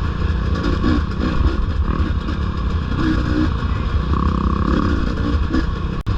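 Dirt bike engines running on the throttle during a trail ride, with the 450 close ahead loud from behind. The sound cuts out briefly near the end.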